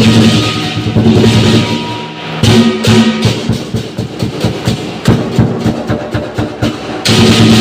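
Lion dance percussion band playing: a large drum with cymbals, loud and dense at first, then a fast run of separate drum strokes from about two and a half seconds in, turning dense and loud again near the end.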